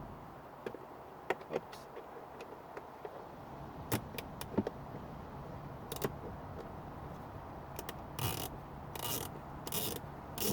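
Clicks and knocks of hand tools and plastic dashboard trim being worked loose. Near the end come three short rasping scrapes, about one every 0.7 seconds.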